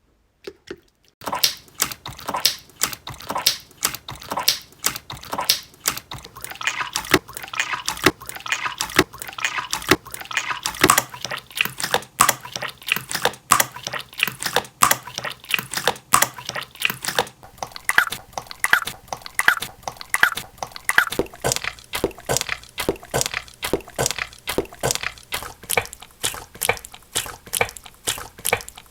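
Slime being squeezed and pressed, trapping and releasing air in sharp wet clicks and pops, the 'quacking' (kkwak-kkwak) slime sound. It starts about a second in and repeats steadily, two or three pops a second, with a few short squeaky chirps in the middle stretch.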